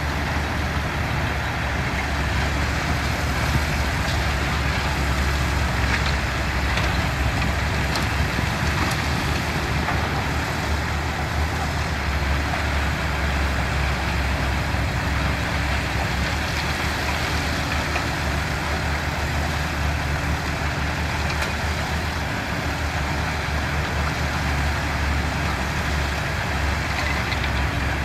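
Diesel engines of heavy construction machinery running steadily, a continuous low rumble with a few faint clicks and clanks.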